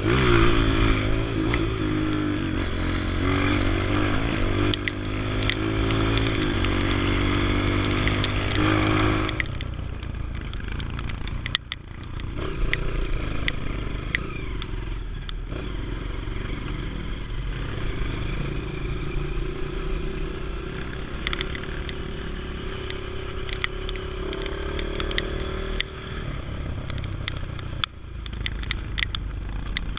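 Yamaha TT-R230 trail bike's single-cylinder four-stroke engine under throttle. Its pitch rises and falls for about the first nine seconds, then it runs lower and steadier, with scattered clicks and knocks.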